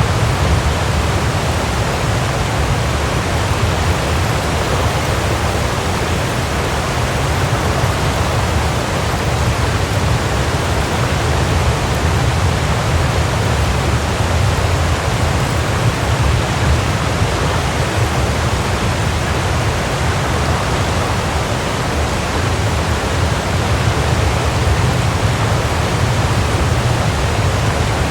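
Waterfall: a steady, unbroken rush of falling water, with a strong low rumble under the hiss.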